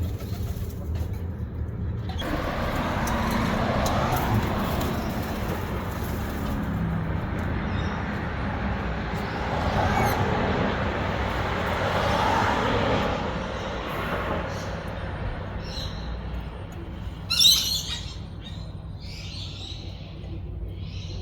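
A steady rushing noise that swells and fades several times, with a single sharp, loud bird squawk about three quarters of the way in and a few shorter bird calls near the end.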